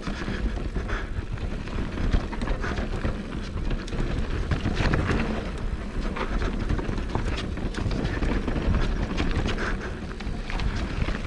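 Wind buffeting the microphone and a mountain bike running over a rough dirt trail, with a steady low rumble of tyres and frequent short clicks and knocks from the bike.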